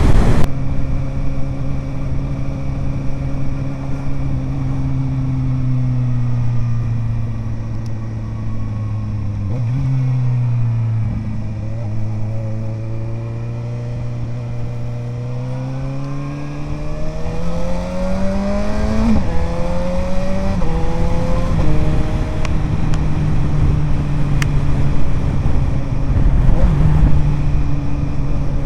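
Suzuki GSR 750 inline-four through an Ixrace Z7 aftermarket exhaust, heard from the moving bike. It runs at a steady pitch, dips as the throttle eases, then revs up with rising pitch. The pitch drops abruptly twice, a second or two apart, as quickshifter upshifts, then it settles into a steady cruise.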